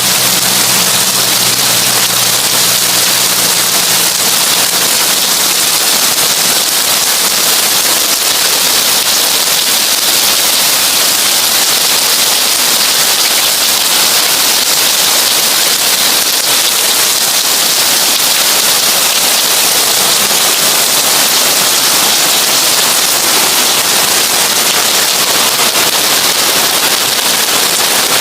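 Heavy rain on a tin roof: a dense, steady, crackling hiss of drops on metal. A faint low hum fades out in the first few seconds.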